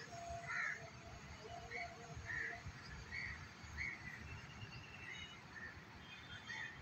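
Birds calling outdoors in short, separate calls every half second or so, with a low rumble of wind on the microphone.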